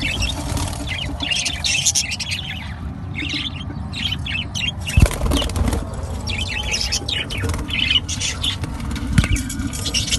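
A flock of budgerigars in an aviary, chirping and chattering continuously in quick high bursts, with wings fluttering. A single sharp knock comes about five seconds in.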